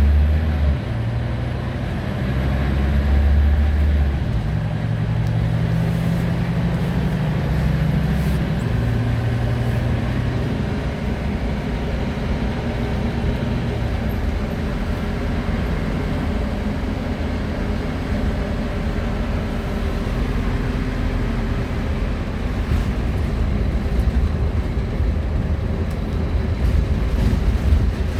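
Scania-engined Wright Solar Rural bus's diesel engine heard from inside the cabin, its note rising and dropping in steps over the first ten seconds or so, then settling into steady running under a low road and tyre rumble.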